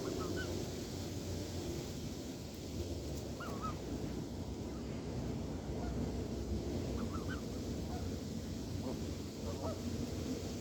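Canada geese honking, scattered short calls a few seconds apart over a steady low rumble.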